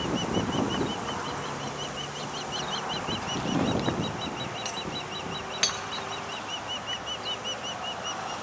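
A bird calling a long, steady series of short high notes, about five a second, with a second, faster series of higher notes joining in the middle; a single sharp click sounds a little past halfway.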